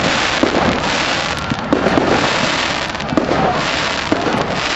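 Fireworks going off in a dense, continuous crackle, with several sharper pops scattered through it.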